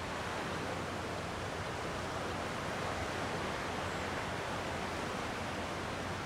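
Gentle sea waves washing on the shore, a steady, even rush of surf with slow, soft swells.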